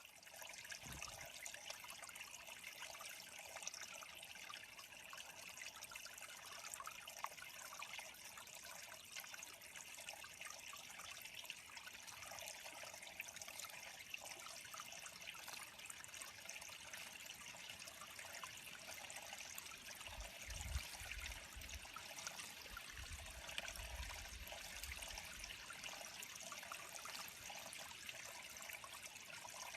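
Steady, faint trickle of water into a bird pond, with a few low rumbles about twenty seconds in.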